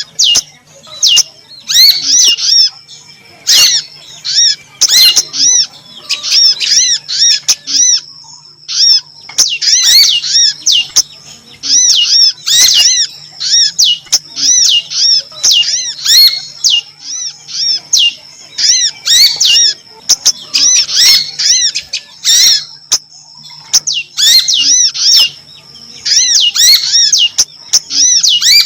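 Lure recording of a small songbird's female call: rapid runs of high, arched chirps repeated in bursts with brief pauses, over a faint low hum.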